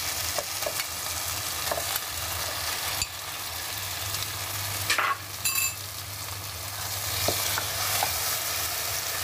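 Spinach paste frying and sizzling in a pan as paneer cubes are tipped in and stirred through with a spatula, with scattered scraping clicks. A couple of sharp knocks against the pan about five seconds in, with a brief metallic ring.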